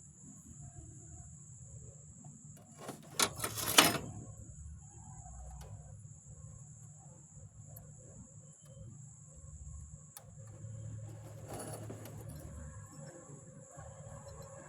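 A loud, short metallic clatter about three seconds in and a fainter one near the end, over a low steady hum and a faint high whine.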